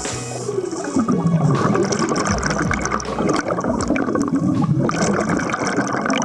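Water bubbling and gurgling in a steady, dense churn, with a falling whoosh in the first second or so.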